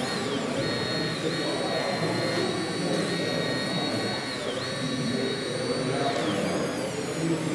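High-pitched electric motor whine of a radio-controlled model vehicle, holding steady and then dropping in pitch as it slows, three times, over the chatter of a crowd.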